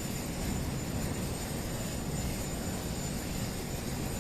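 Steady low rumble of a helicopter running on the ground, with no distinct changes in pitch or level.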